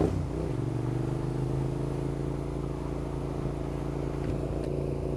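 Suzuki SV650 V-twin motorcycle engine just restarted after stalling: the revs drop back right at the start and it then idles steadily. The rider says the bike is not running right.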